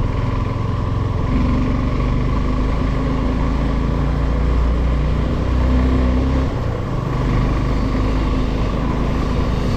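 Motor vehicle engines running on the road, a steady low engine note with road noise; the lowest part of the sound eases off about six and a half seconds in.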